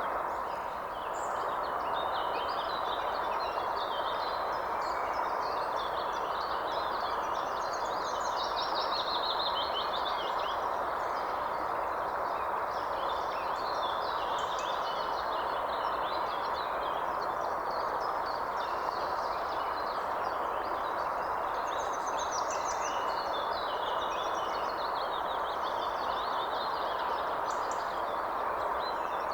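Many songbirds chirping and trilling over a steady rushing background noise.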